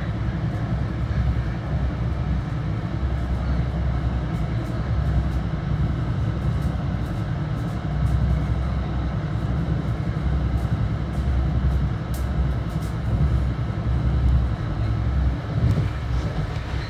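Ride noise inside a Bombardier BTC-1B commuter rail coach running at speed: a steady low rumble of wheels on the rails, with light clicks and rattles now and then, more of them in the second half.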